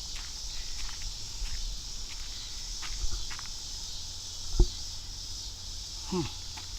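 Steady high insect chorus outdoors with a person's footsteps walking. A single sharp knock about four and a half seconds in, and a short downward-sliding sound near the end.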